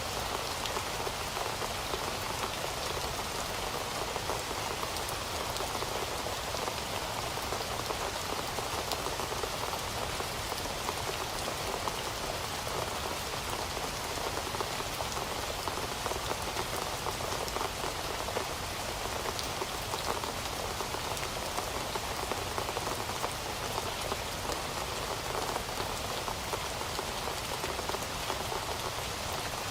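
Heavy rain falling steadily on a surface, a dense even hiss of drops with no let-up.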